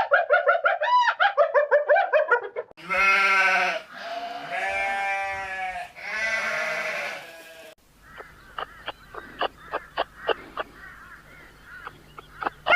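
Quick high-pitched yips, then three long bleats of about a second each, then a run of sharp clicks and short calls.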